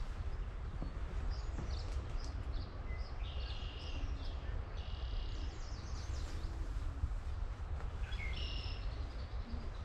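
Small songbirds singing several short, high phrases, a cluster in the middle and another near the end, over a steady low rumble.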